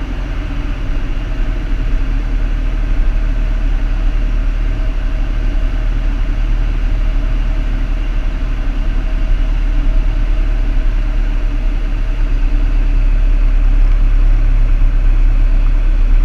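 Single-engine Piper Cherokee's engine and propeller droning steadily inside the cabin, growing slightly louder near the end.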